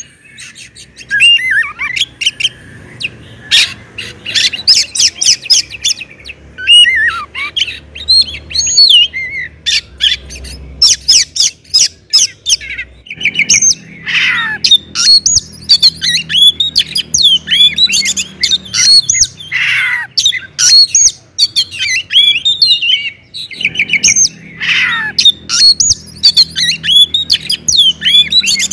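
Oriental magpie-robin singing loudly: a rapid, varied stream of clear whistles, chirps and downward slurs mixed with harsh, scratchy notes.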